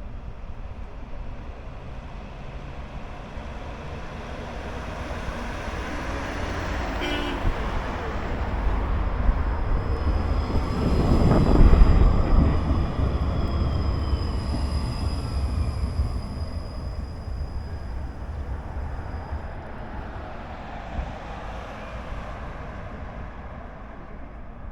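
A street tram passing by: its rumble builds to a peak about halfway through and then fades away, with a thin high whine while it is closest.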